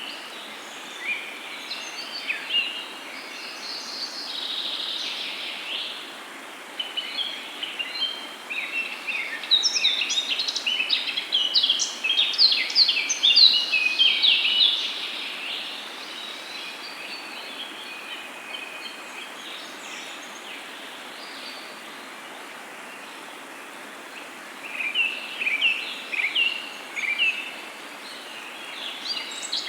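Several songbirds chirping and singing in quick bursts, busiest in the middle and again near the end, over a steady soft background hiss of flowing water.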